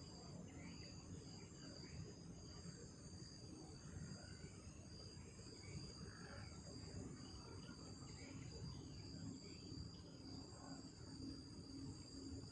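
Night insects chirring in a faint, steady high-pitched drone, over a low rumbling noise.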